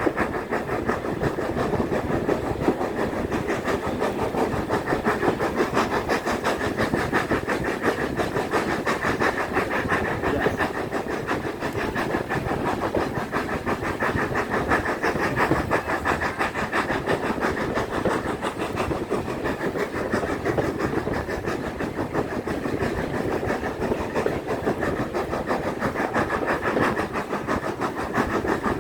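Railway carriage running along the line, heard on board: a steady rumble and rattle of wheels on rail.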